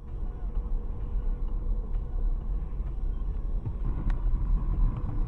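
Steady low rumble of a car picked up by a dashcam, with a faint steady hum and a few light ticks.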